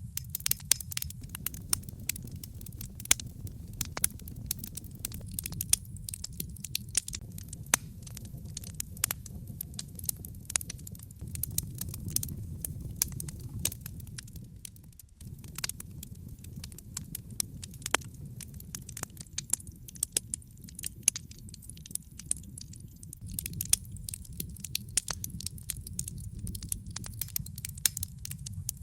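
Logs burning in a fireplace, crackling with many quick sharp pops over a steady low rumble of the flames. The rumble briefly drops away about halfway through.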